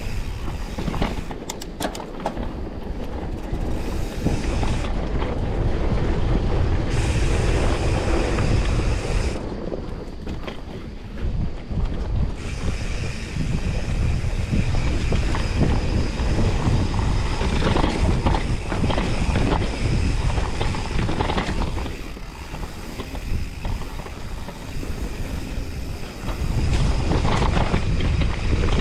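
Wind buffeting a body-mounted camera's microphone, with the rumble and rattle of a mountain bike ridden down a rough trail. The noise eases twice and then builds again.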